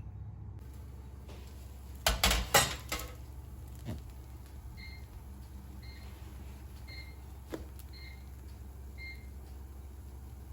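A few clattering knocks, then a kitchen appliance such as an oven or microwave beeping five times, short evenly spaced beeps about a second apart.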